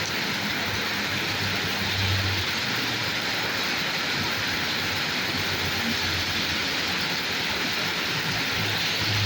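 Steady rain falling on a road, with a low rumble of passing traffic that swells about two seconds in and again near the end.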